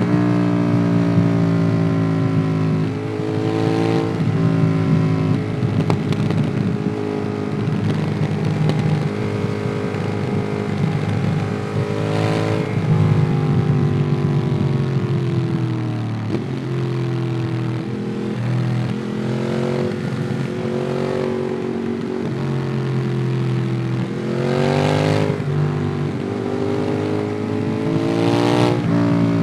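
Ducati Monster 821's L-twin engine through an aftermarket QD Twin Gunshot exhaust, heard from the rider's seat while riding. The revs rise and fall through gear changes, with several quick climbs and shifts spread through, the last two close together near the end.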